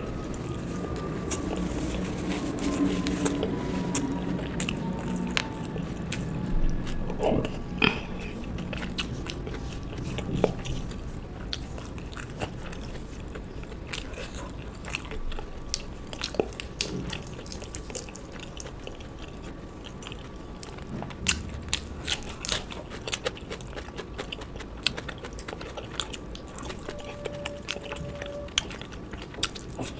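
Close-miked eating sounds: a person chewing and biting mouthfuls of a rice and fish curry meal, with many sharp crunchy clicks scattered throughout.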